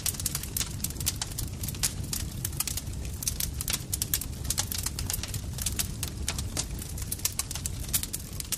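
Campfire crackling: a dense, irregular run of sharp pops and snaps from burning wood over a steady low rumble of the flames.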